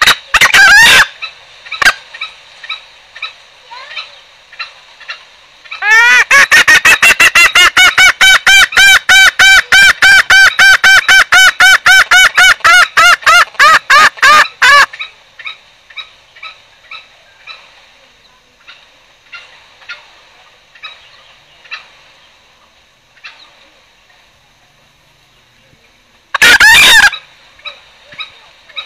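Green junglefowl lure calls: a short loud call at the start, then a long run of rapid loud notes, about five a second, for some nine seconds from about six seconds in, with faint softer notes after it and another short loud call near the end.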